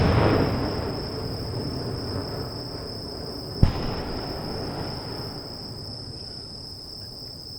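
Aerial fireworks: the rumbling echo of a large shell burst fades away, and a single sharp firework bang goes off about three and a half seconds in and rolls away. A steady high insect trill runs underneath.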